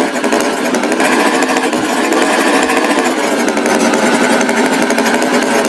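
Tractor engine running with a steady, rapid rattle.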